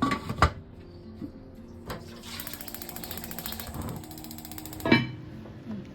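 Kitchen clatter of cookware at the start, then a fast, even mechanical clicking for about three seconds that ends in a sharp knock.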